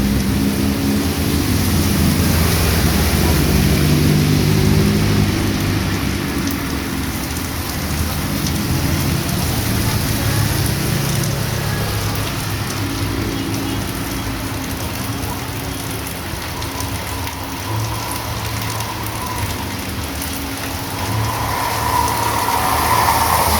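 Heavy rain falling steadily on a street. The engine of a passing vehicle runs underneath during the first few seconds, and another comes up near the end.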